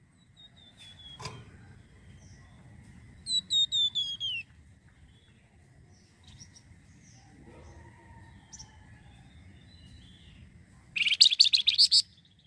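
Flamboyan songbird singing: a run of about five falling whistled notes a few seconds in, scattered short chirps, then a loud fast burst of notes near the end.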